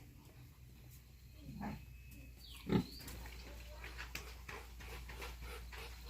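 Pig grunting: a faint call, then one loud call a little under three seconds in, followed by a run of short quick grunts.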